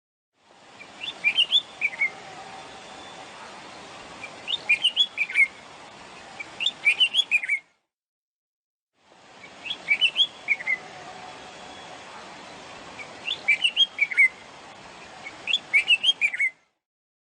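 Bulbul song recording played twice, with a short silence between. Each time there are three short phrases of quick chirping notes over a steady background hiss.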